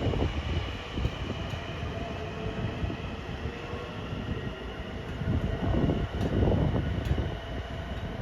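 Long Island Rail Road train running through the station: a steady rumble of wheels on the track with a faint high whine over it and a few light clicks.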